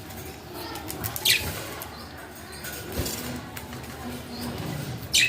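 Pet budgies chirping, with sharp calls about a second in and twice near the end, and wings fluttering.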